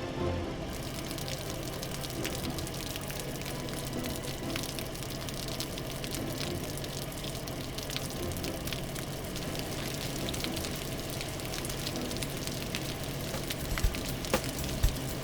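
Steady hissing with dense crackling clicks: water spraying onto a fire as it is put out, with a few louder knocks near the end.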